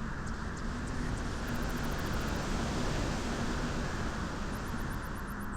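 Wind blowing at a beach, a steady rushing noise that swells toward the middle and eases off again.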